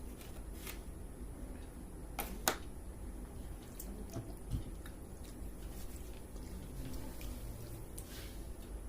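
Wet eating sounds from watery fermented rice (pakhala): small drips and squishes of rice and water handled in a bowl, with a few sharp clicks, two close together about two seconds in.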